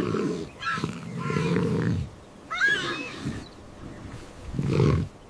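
Lioness and cub calling in a series of rough, low growling grunts, with a short higher call about three seconds in.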